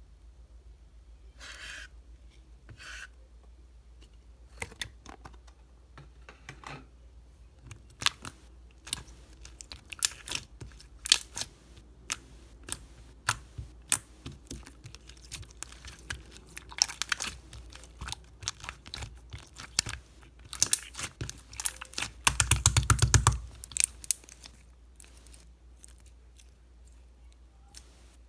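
Clear slime being squeezed and pressed by hand, making scattered sharp clicks and pops as trapped air bursts. Near the end comes a dense run of rapid pops lasting about a second.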